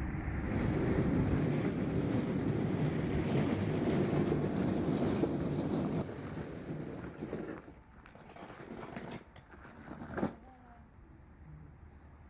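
A car driving, its steady road and engine noise dropping away about seven and a half seconds in, with a single sharp click near the end.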